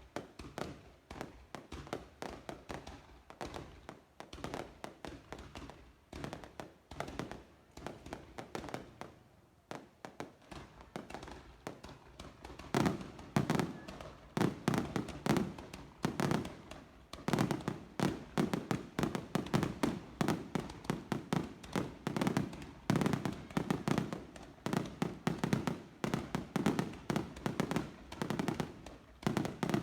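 Fireworks display: a dense, continuous run of overlapping bangs and crackles, growing louder and thicker about halfway through.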